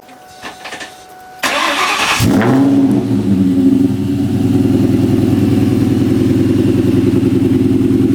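Ford Mustang GT's V8 being started: a couple of light clicks, then the starter cranks about a second and a half in and the engine catches with a quick rev flare. It settles into a steady, loud, lumpy idle.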